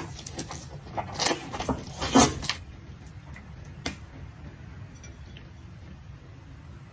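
Close-miked eating sounds of a seafood boil mukbang: a run of short wet clicks and crackles of food being handled and chewed over the first two and a half seconds, then quieter, with one more click about four seconds in.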